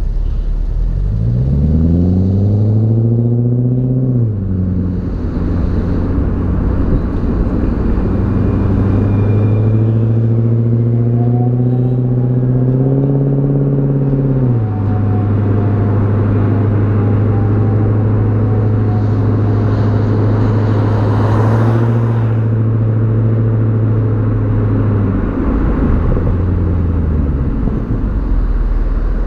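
BMW E39 540i's 4.4-litre V8 exhaust while driving: the engine note rises twice under acceleration, each pull ending in a sudden drop at a gear change, with steady cruising between and after. Road and wind noise run throughout.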